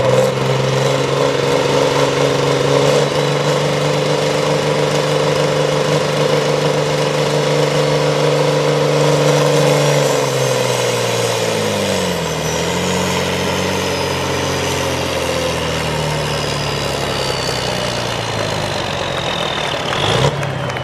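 Tractor engine running steadily; about halfway through its revs dip and then climb back, and a high whine falls in pitch near the end.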